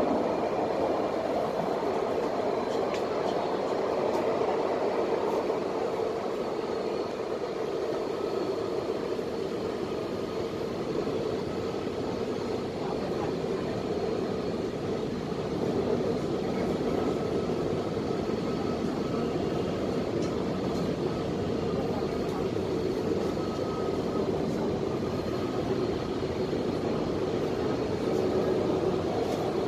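Steady running noise inside an MTR West Rail Line C-Train carriage under way, a continuous rumble of wheels and motors with a faint steady whine.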